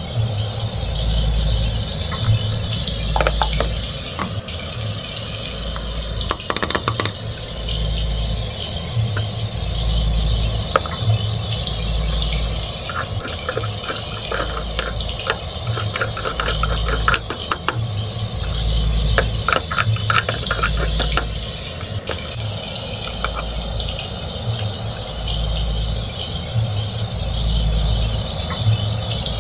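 Small plastic toy cookware clicking and tapping as pieces are handled and a toy spatula works a toy frying pan. Under it runs a steady hiss and a low pulse that repeats every couple of seconds.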